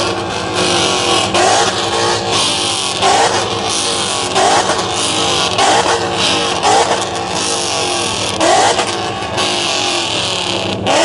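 Ford Mustang's engine being free-revved in quick blips, each a sharp rise in pitch, about once a second over a steady idle.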